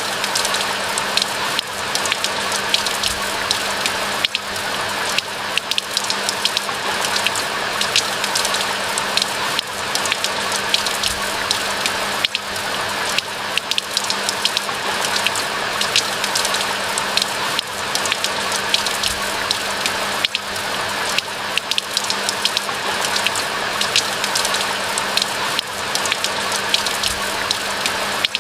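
Steady rainfall with dense, sharp clicks of individual raindrops over a continuous hiss of rain. A faint steady low hum sits underneath.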